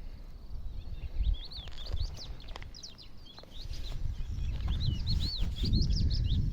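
Small birds singing, a rapid run of short high chirps and trills that starts about a second in. Under it is a low, gusty rumble that grows louder about halfway through.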